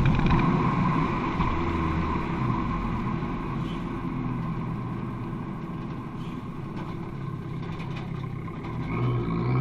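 Abarth 595 Competizione's turbocharged 1.4-litre four-cylinder running through an Akrapovic exhaust. It is loud at first, then eases to a steadier, lower note, and the revs begin to climb again near the end.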